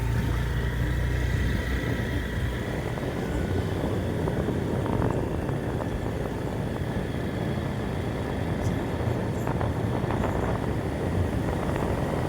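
A motor vehicle running steadily, its low engine hum mixed with rushing road and wind noise.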